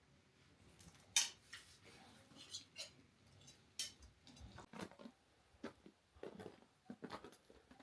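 Scattered light clicks and knocks, the sharpest about a second in and several more in the second half.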